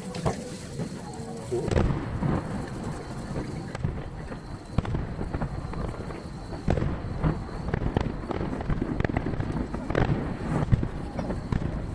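Aerial fireworks shells bursting in rapid succession, heard from a distance, with each bang echoing. The recording is sped up threefold, so the booms come thick and fast, with a burst of especially sharp cracks about ten seconds in.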